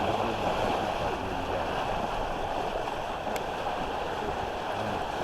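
Water rushing along the hull of a traditional east coast sailing smack under way, with wind, a steady rushing noise.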